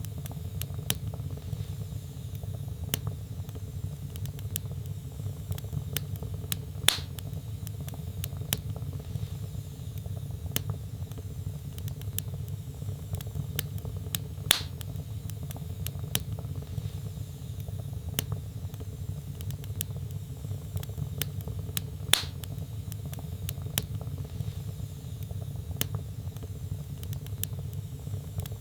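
Wood logs burning in a fireplace, crackling with frequent small snaps over a low steady rumble. A louder pop comes about every seven to eight seconds, three times.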